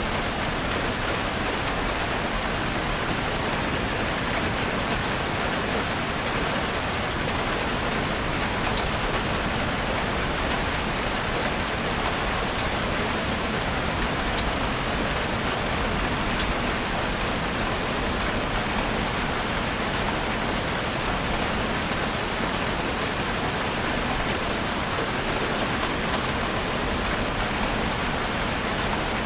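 Heavy rain drumming steadily on a chalet roof, a dense even patter with countless small drop ticks.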